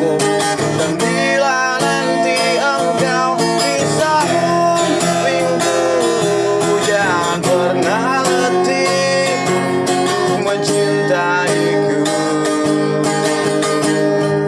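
Acoustic guitar music, strummed chords with a melody line over them.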